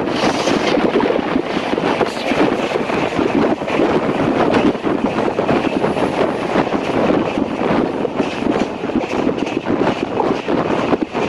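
Express passenger train running at speed, heard from a camera held out beside the coach: a steady rushing of train running noise mixed with wind buffeting the microphone.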